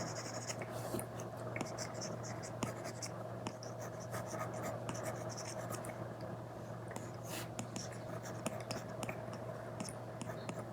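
Apple Pencil Pro tip drawing on an iPad screen covered with a paper-like film: many short scratchy strokes and light taps of the tip. A steady low hum runs underneath.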